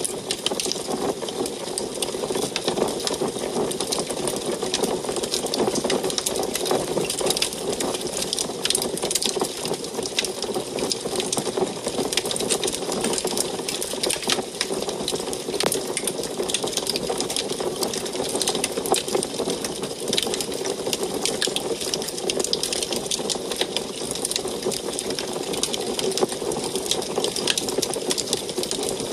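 Wood fire crackling in an antique wood stove: a dense, continuous stream of small snaps and pops over a steady rushing noise.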